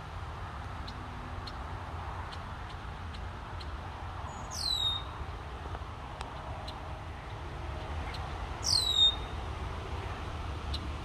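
A bird gives two loud whistled calls about four seconds apart, each sliding steeply down in pitch. Faint short chips repeat steadily underneath, over a low, even rumble.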